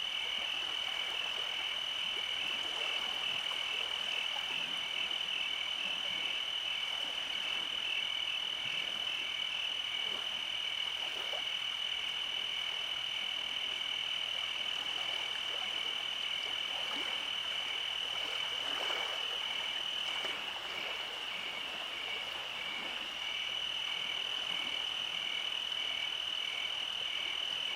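Night chorus of frogs and insects: a steady high trill with a faster pulsing trill just beneath it, thinning briefly about twenty seconds in.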